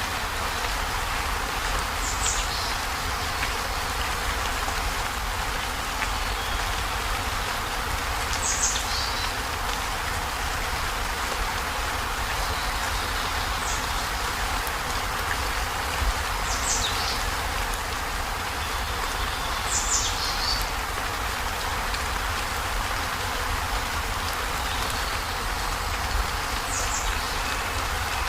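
Heavy rain falling steadily on a corrugated zinc roof, an even hiss. About six brief high chirps, each falling in pitch, stand out over it at uneven intervals.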